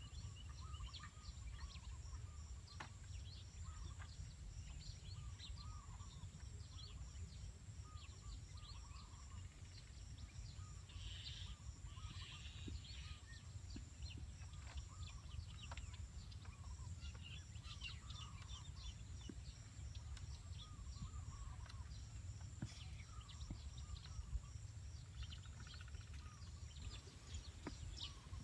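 Faint birds chirping in short repeated calls over a steady low rumble, with scattered light clicks and knocks.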